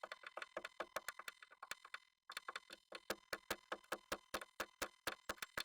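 Rapid dry taps and scratches inside a wooden nest box, about seven a second, with a brief break about two seconds in. A Japanese tit is pecking and shuffling its feet on the wood.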